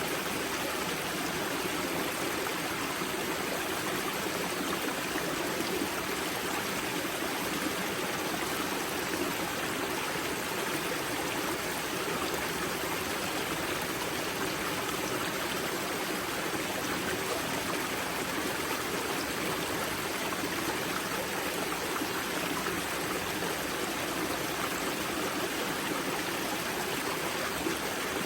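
Spring-fed mountain river water rushing and splashing steadily over rocks at its source, with a constant even sound.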